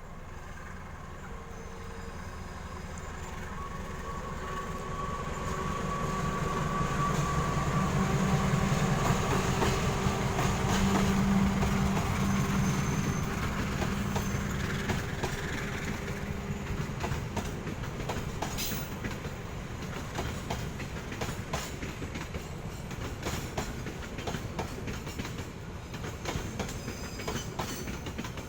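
CC 206 diesel-electric locomotive hauling a passenger train passes by: its engine rumble builds to a peak about ten seconds in, then fades. Through the second half the coaches roll past with a steady clickety-clack of wheels over rail joints.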